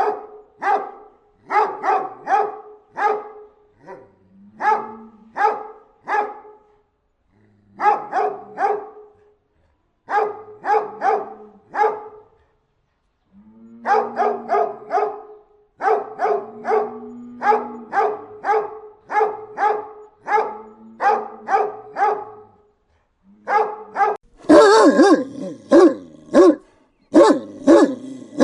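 Large dog barking aggressively in quick volleys of two to five barks, with short pauses between them. Several volleys open with a short low growl. Near the end a louder, harsher bout of barking takes over.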